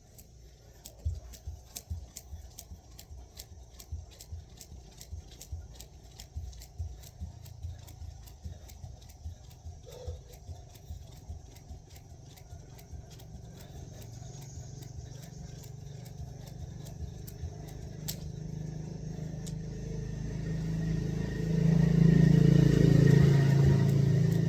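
A jump rope slaps the ground in a steady rhythm, about two or three times a second. From about halfway a motor vehicle's engine rumble grows louder and drowns it out near the end as the vehicle passes close by.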